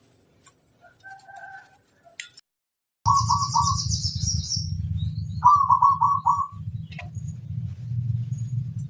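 Zebra dove (perkutut) cooing in two runs of rapid notes: a short run about three seconds in and a longer run of five notes a couple of seconds later. A high chirping trill from a smaller bird overlaps the first run, over a steady low rumble. The sound drops out completely just before the cooing starts.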